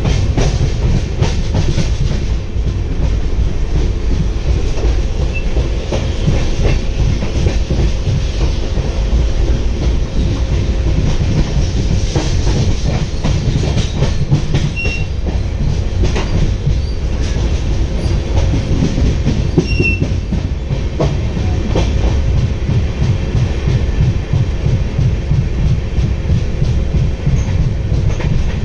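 Moving passenger train heard from an open coach doorway: a steady rumble with the continuous clickety-clack of wheels running over the rail joints.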